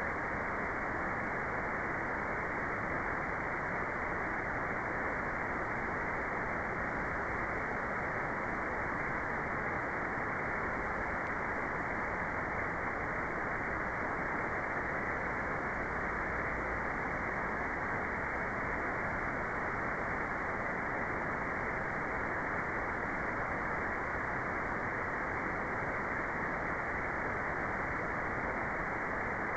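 Steady synthetic white noise, an even, unbroken hiss with its upper treble cut off, so it sounds like a soft rush rather than a bright hiss.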